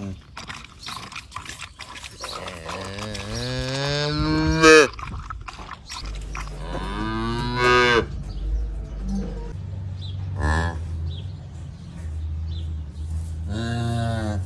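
A cow mooing three times: a long moo that rises in pitch from about two to five seconds in, a shorter moo around seven seconds, and another beginning near the end. A low rumble continues between the calls.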